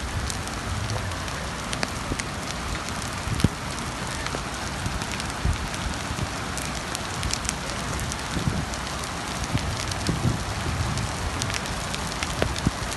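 Hailstones falling and striking hard surfaces: a dense, steady rattle of countless small impacts, with a few louder knocks standing out.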